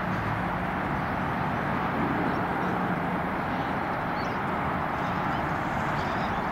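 Comeng electric train running around a curve: a steady noise of steel wheels on the rails with a low motor hum.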